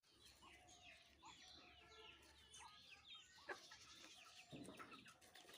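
Faint animal calls: many short chirping and bleating calls that rise and fall in pitch, overlapping one another.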